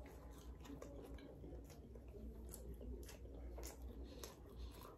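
Faint chewing of a mouthful of steak-and-cheese sandwich with the mouth closed: scattered soft wet clicks about twice a second over a low steady hum.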